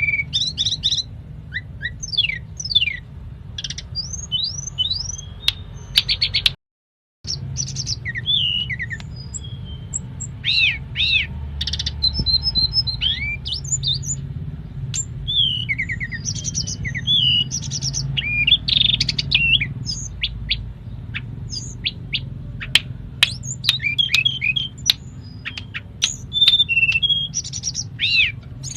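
Tledekan gunung songbird singing continuously, a rapid run of short whistled glides, chirps and trills, in the full-voiced song used as a master recording. The song cuts out completely for about half a second around seven seconds in. A steady low hum runs underneath.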